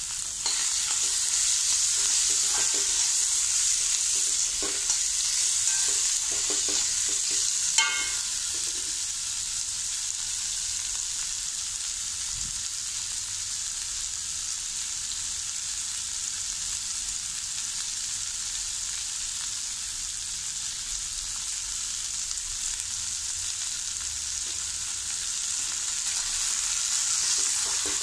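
Chopped onions, garlic, ginger and green chillies sizzling in hot oil in an iron kadai: a steady frying hiss. A few scrapes and clicks of stirring come in the first eight seconds, with one sharp metal clink about eight seconds in.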